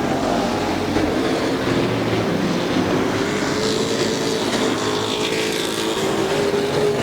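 Several Super Pro Truck race engines running hard on a short oval track. Their overlapping engine notes slowly rise and shift as the trucks lap.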